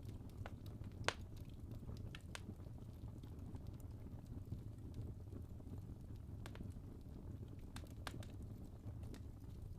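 Wood fire burning in a fireplace: a steady low rumble with scattered sharp crackles and pops from the logs, the loudest about a second in and a few more later on.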